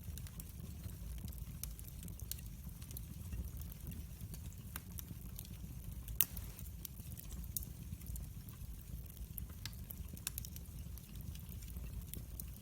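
Wood fire crackling: scattered sharp pops and snaps over a low steady rumble, with one louder pop about six seconds in.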